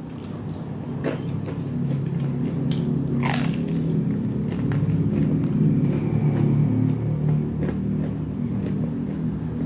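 Close-up biting and chewing of crispy Indonesian fried snacks (gorengan), with crunchy crackles as the fried batter breaks, the loudest crunch about three seconds in.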